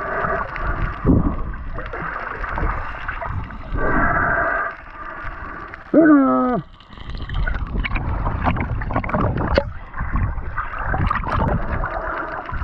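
Muffled water noise with gurgling and light knocks, with a steady hum that comes and goes. About six seconds in there is a short, loud warbling sound that falls in pitch, like a muffled voice.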